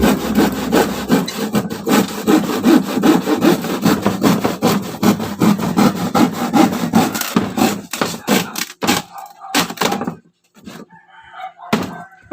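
Hand saw cutting through wood with quick, rhythmic back-and-forth strokes. Near the end it thins to a few separate last strokes and stops about ten seconds in.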